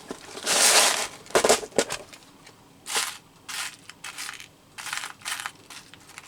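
Hands rummaging through a container of small metal paper brads: an irregular run of rustling and clicking rattles, loudest about half a second in.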